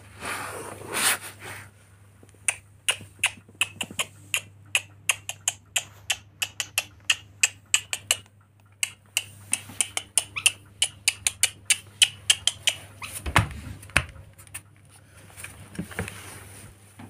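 A quick series of sharp taps or clicks, about three a second, with a few louder rustling bursts near the start and near the end.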